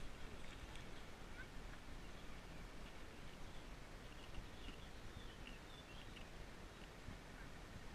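Faint outdoor ambience: a steady low background noise with scattered short, high bird chirps, most of them a few seconds in.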